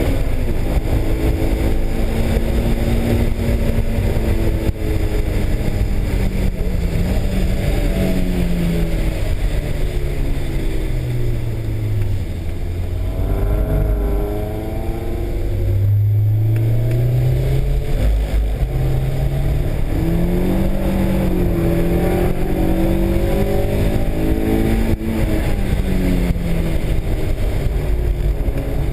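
Honda S2000's four-cylinder engine heard from inside the cabin while lapping a track, its pitch rising and falling with the throttle. It drops sharply about halfway through, as if slowing for a corner, then climbs again, over steady road noise.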